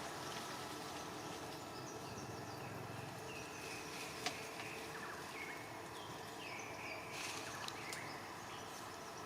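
Faint outdoor ambience: a steady insect hum, with scattered short, high chirping calls in the second half and a single sharp click about four seconds in.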